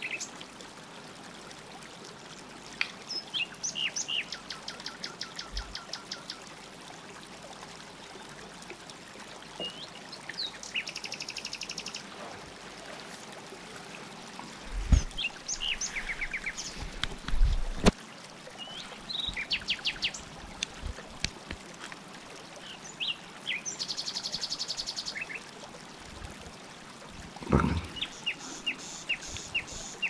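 Small birds chirping and trilling in short repeated phrases over a faint, steady trickle of water, with a few dull knocks about halfway through.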